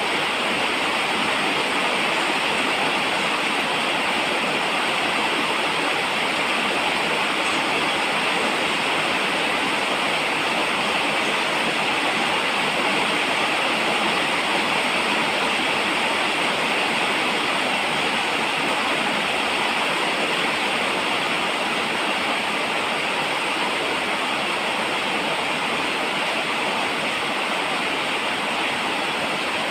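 Steady falling rain: an even, unbroken hiss of water with no let-up and no separate drops or thunder.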